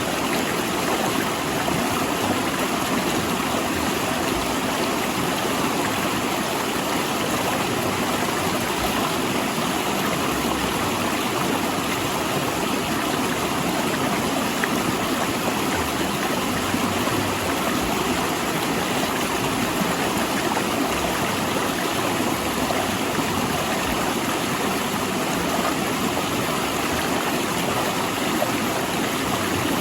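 A mountain river rushing and gurgling over and between large rocks, a steady, even flow of water.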